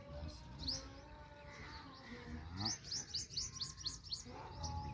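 Small birds chirping outdoors: one short, high, rising chirp early on, then a quick run of about ten such chirps in the middle, over faint low background rumble.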